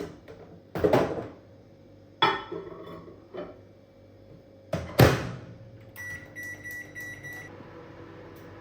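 Knocks and a clink of dishware, then a door shut with a solid thud about five seconds in. This is followed by a quick run of about six short electronic beeps from a microwave oven's keypad.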